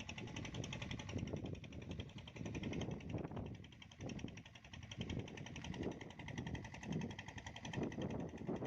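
A small motor running steadily with a rapid, even pulsing, under irregular lower noise.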